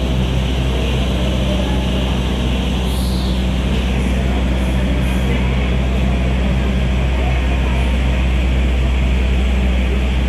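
Passenger train with a KAI Panoramic coach rolling slowly past along the platform: a steady low mechanical hum with rolling hiss over it, and a brief higher swell about three seconds in.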